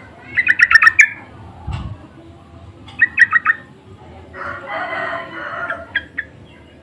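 Yellow-vented bulbul (trucukan) calling: a rapid burst of about six loud, clipped notes, then a shorter burst of about four a couple of seconds later. A longer, rougher sound follows about four and a half seconds in, then a couple of short notes.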